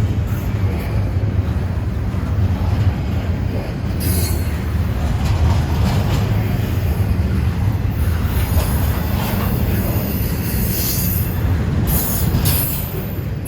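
Freight train rolling past with a steady low rumble of wheels and cars. Stretches of high-pitched wheel squeal come and go several times from about four seconds in.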